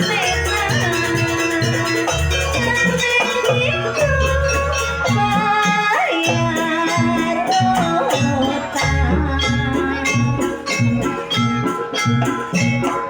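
Live jaranan ensemble music: drum strokes and a fast, steady rattling percussion pattern under a wavering, bending melody line.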